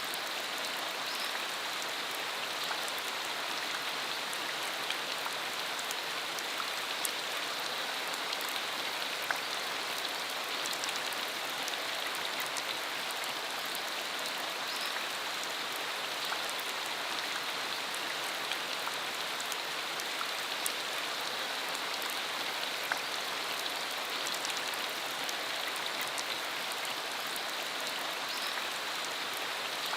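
Steady rain falling, a constant even hiss with scattered distinct drop ticks.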